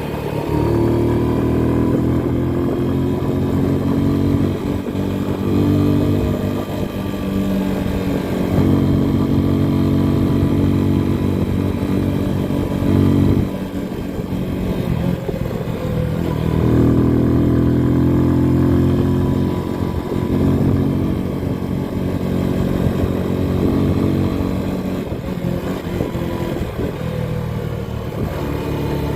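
Motorcycle engine running under way. Its pitch rises and drops several times as the bike accelerates and eases off.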